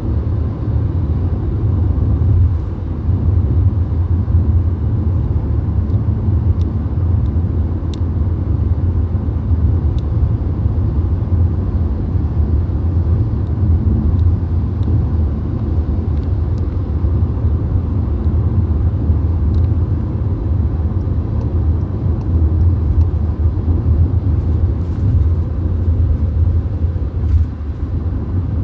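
Steady low road and engine rumble inside a VW Golf's cabin cruising at highway speed, with an even tyre and wind hiss above it.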